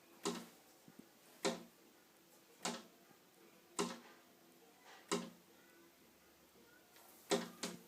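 A bird striking a window pane again and again: a sharp knock on the glass roughly every second, six knocks in all, with two in quick succession near the end.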